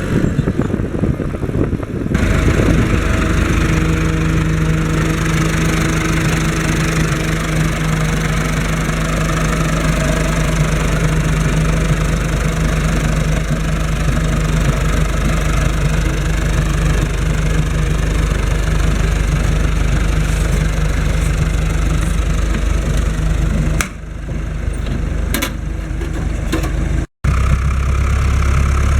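Fendt Farmer 106 S tractor's diesel engine running at a steady speed. About three-quarters of the way through, the sound changes and drops out for a moment, then the engine carries on at a lower, deeper note.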